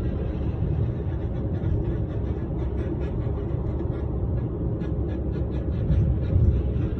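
Steady low rumble of a moving vehicle's road and engine noise, swelling slightly about six seconds in.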